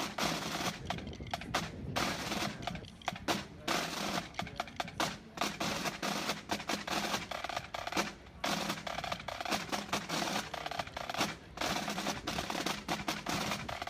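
Fireworks bursting, with rapid, irregular bangs and crackling pops that come close together like a drum roll.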